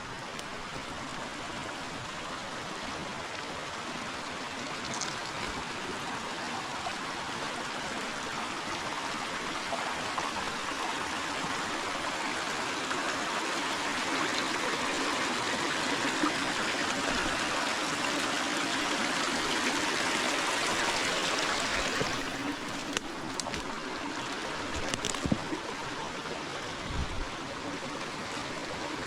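River water flowing: a steady rush that grows slowly louder, then drops off suddenly about three-quarters of the way through. A few light clicks and taps follow.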